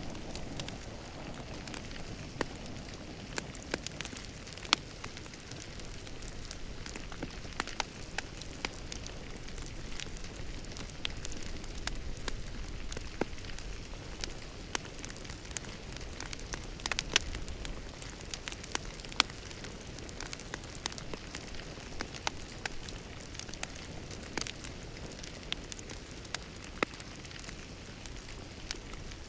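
Wood fire crackling in a fireplace: a steady soft hiss with irregular sharp pops and snaps, a few louder ones scattered through.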